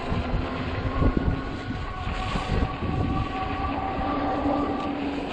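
Riding noise from a fat-tire e-bike on a snowy road: wind rumbling on the microphone and the tyres bumping over the surface, with a steady high whine held for a few seconds in the middle.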